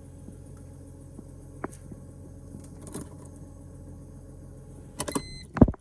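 Car engine idling steadily after an overnight cold start. About five seconds in come a few rattling clicks, then a single loud thump.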